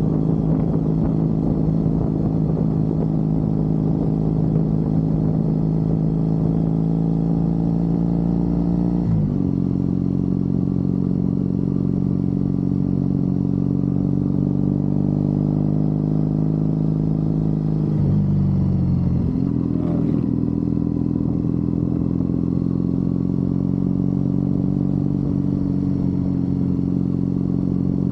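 Triumph Bonneville parallel-twin engine running steadily under way. The engine note drops about nine seconds in, dips again around eighteen seconds and picks back up a second or so later.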